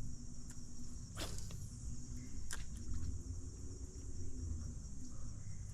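Crickets and other insects chirping in a steady high-pitched chorus over a low hum, with a couple of sharp clicks about one and two and a half seconds in.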